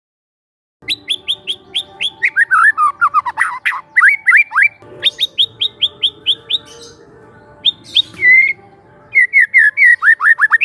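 Young wild white-rumped shama singing: after a second of silence, quick runs of sharp down-slurred notes, about five a second, alternating with warbled phrases, with short pauses between bursts.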